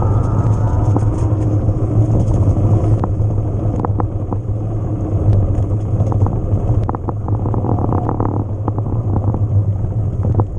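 Haibike XDURO AllMtn 2.0 electric mountain bike being ridden over rough trail: a steady low rumble of tyres and wind on the helmet or chest camera, with many rattles and clicks from the bike, thickest about seven to eight seconds in.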